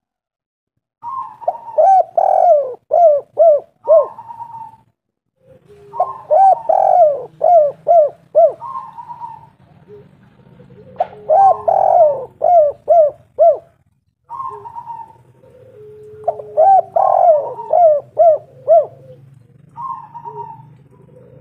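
Spotted dove (tekukur) singing its cooing song, repeated about four times. Each phrase is a quick run of short coos ending in a longer coo. A faint low hum runs beneath from about five seconds in.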